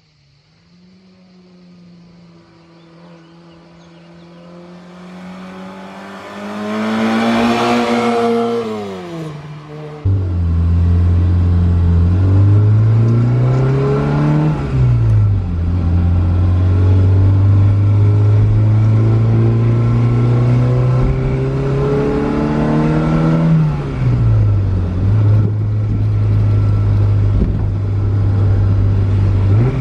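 Fiat 127 Moretti coupé's four-cylinder engine: the car approaches, growing louder, and passes with its pitch falling about eight seconds in. About ten seconds in, the sound cuts abruptly to the engine heard close, running steadily under load, revving up and dropping back sharply twice.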